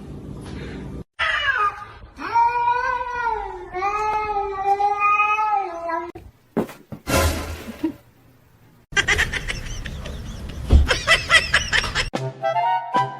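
A cat yowling in a long, wavering call of about four seconds, then calling loudly again for a few seconds. Music comes in near the end.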